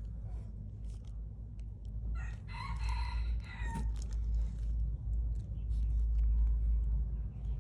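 A rooster crowing once, a call of about a second and a half starting a little over two seconds in, over a steady low rumble.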